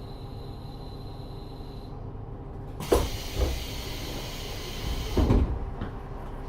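KiHa 40 diesel railcar halting: a high brake squeal cuts off about two seconds in over the low rumble of the idling engine. Then a loud hiss of compressed air with several heavy thumps as the pneumatic passenger doors work.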